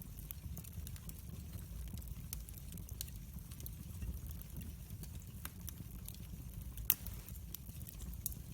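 Wood fire crackling in a fireplace: scattered sharp pops and clicks over a steady low rumble of the flames, with one louder pop about seven seconds in.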